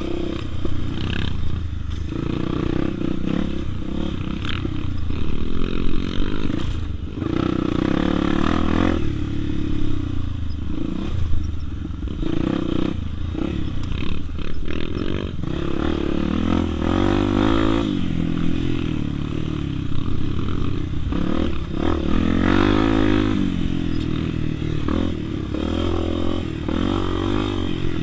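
Honda Tornado 250's single-cylinder four-stroke engine being ridden enduro-style, its pitch rising and falling again and again as the throttle is opened and closed.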